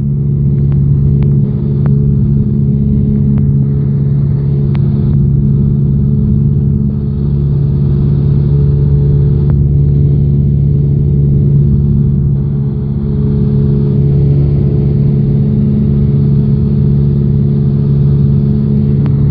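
Cessna 172's piston engine and propeller droning steadily, heard inside the cockpit, with a few faint clicks in the first few seconds.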